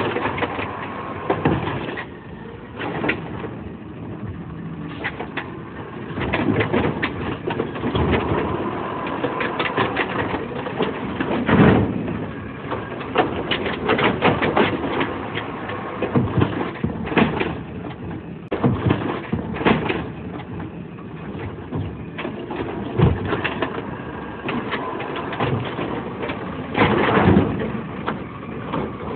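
Garbage truck at work: engine running under a steady noise, with many sharp knocks and clanks.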